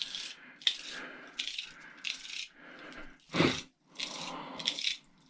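Metal parts of a microwave rattling and clattering as it is taken apart by hand, in a string of short irregular bursts with a sharper knock about three and a half seconds in.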